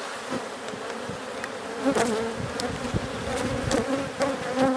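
Honey bees buzzing around an open hive, a steady hum that wavers as bees fly close past the microphone, with a few light clicks of hive frames being handled.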